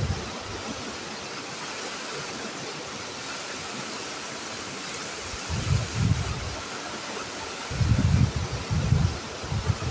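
Waterfall rushing steadily, with a few low, uneven rumbles in the second half.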